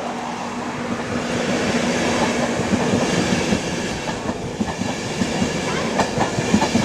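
InterCity 225 train, a class 91 electric locomotive hauling Mark 4 coaches, running along the platform road. Its wheels clatter over the rail joints, and the clicks come more often in the second half.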